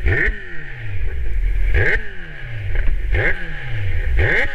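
Kawasaki Z900's inline-four engine blipped hard four times through an Arrow exhaust with its dB killer fitted, each rev rising sharply and falling back to idle.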